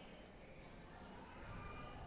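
Faint room ambience with a low rumble and a few thin, high bird chirps about a second in.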